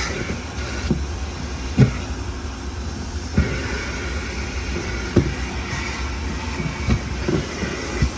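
Steady low rumble of a moving vehicle with a sharp thump or knock every second or two, like bumps on the road.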